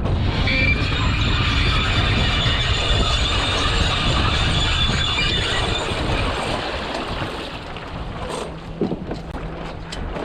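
Wheels of a boat launching dolly rolling with a rumble and a high squeal that fades out about seven seconds in, with wind buffeting the microphone.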